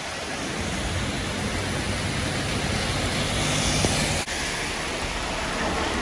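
Heavy rain pouring down and floodwater rushing across a road, in a steady roar with a low rumble of vehicles wading through the water. The sound breaks off briefly about four seconds in and then carries on.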